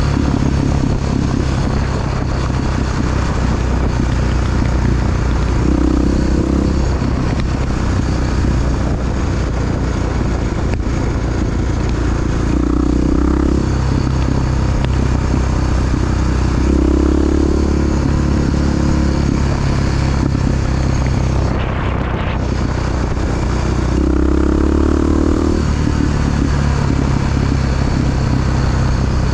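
Big single-cylinder four-stroke engine of a Honda XR dual-sport motorcycle running steadily under way. Its note changes briefly a few times as the throttle or gear changes.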